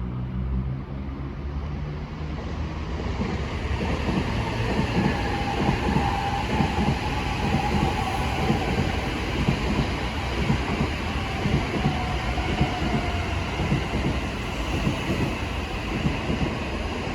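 A train running past on the rails, its wheels giving a rapid, irregular clatter over the track that builds up after about three seconds, with a faint steady whine above it.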